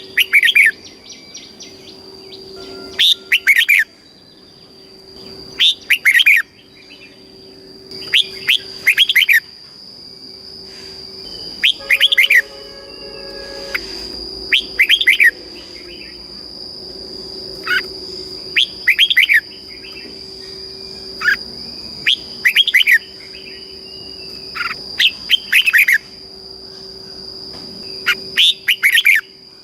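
Red-whiskered bulbul singing short, quick warbled phrases, one every two to three seconds. A steady high-pitched tone runs underneath.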